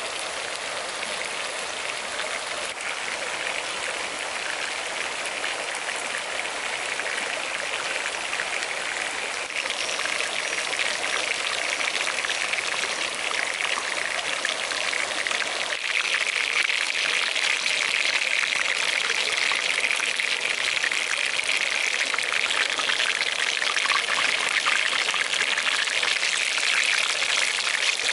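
Chicken frying in a small pan of oil over a wood fire, a steady crackling sizzle, mixed with a running stream; the sound steps louder about a third of the way in and again around the middle.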